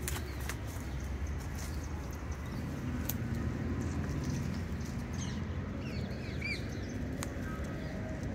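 Outdoor ambience with a steady low rumble and a few sharp clicks, and a small bird giving several short chirps about five to seven seconds in.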